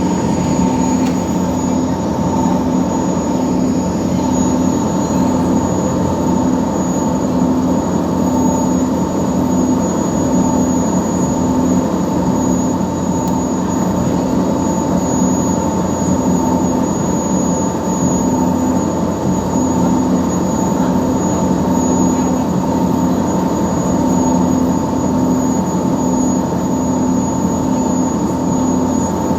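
Scania marine diesel engine of a passenger ferry running steadily under way, a constant heavy drone with a steady hum and a thin high whine over it.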